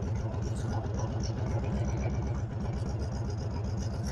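2019 Honda Fury chopper's 1300 cc V-twin engine running steadily, its exhaust beating in even pulses.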